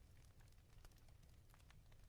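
Wood fire crackling in a fireplace: faint, irregular snaps and pops over a low steady rumble.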